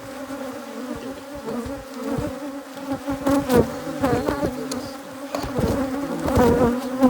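Africanized hybrid honey bees buzzing in a steady drone around an opened hive. Now and then single bees fly close past, their buzz swelling and sliding up and down in pitch, most clearly about halfway through and near the end.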